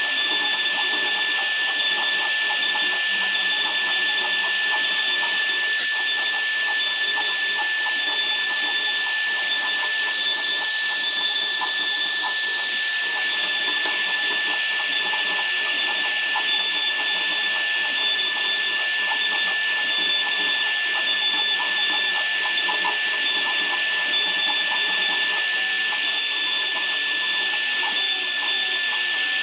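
Woodworking power tool running steadily, with a constant high whine.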